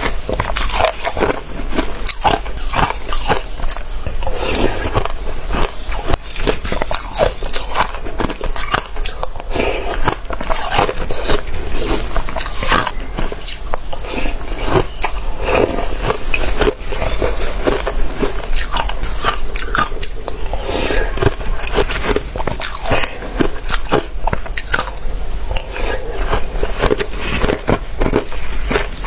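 Close-miked biting and chewing of watery, slushy ice: a continuous run of wet crunches and crackles.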